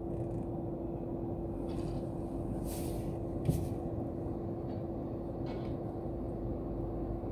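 A car's engine idling, heard from inside the cabin: a steady low rumble with a constant hum, and a short soft knock about three and a half seconds in.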